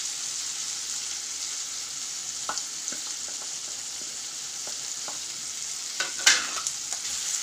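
Onions and tomatoes sizzling steadily in hot oil in a kadai, with the spice powders just added. A few light clicks sound, and a short clatter comes about six seconds in.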